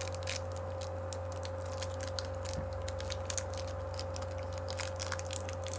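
Plastic candy wrapper of a strawberry KitKat crinkling and crackling in irregular little clicks as it is torn open, over a steady low hum.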